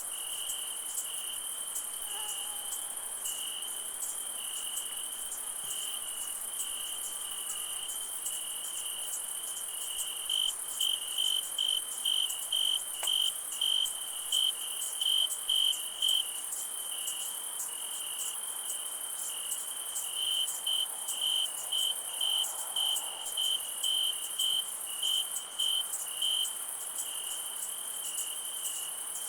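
Crickets at night: one trills steadily at first, then breaks into regular chirps about two a second, over a constant high-pitched insect hiss.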